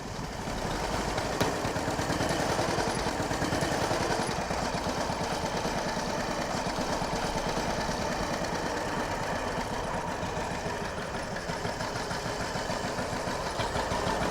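Motorcycle engine running steadily as the bike rides along, with a fast, even pulse.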